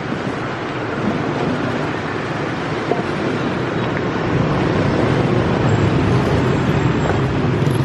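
Steady vehicle rumble and street traffic noise, growing louder through the second half.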